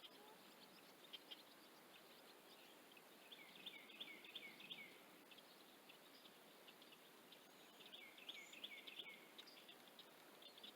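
Faint birds chirping in two short bouts of quick repeated notes, over a steady low hiss of outdoor background.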